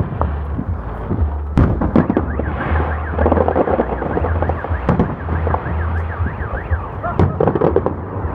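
A fireworks display going off: sharp bangs over a heavy low rumble of booms. Through the middle a car alarm wails up and down over and over, set off by the blasts.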